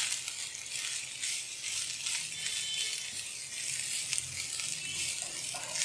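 Chicken mince sizzling gently in a nonstick pan on low flame as a silicone spatula stirs it, with soft scraping strokes through the steady hiss.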